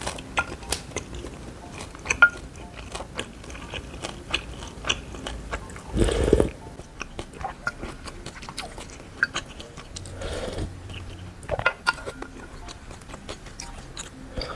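Close-miked mouth sounds of a person chewing food: a steady run of small, soft wet clicks, with a brief louder noise about six seconds in and a fainter one around ten seconds in.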